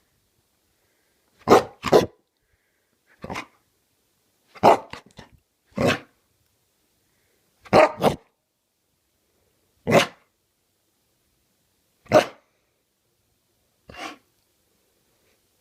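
A dog barking, short single and double barks every second or two with silent gaps between.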